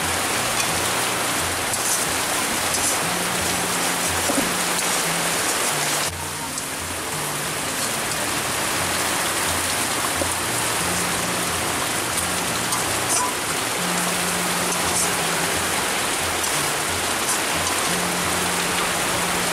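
Steady rain falling on the ground and roofs, with background music playing a low, stepping bass melody over it.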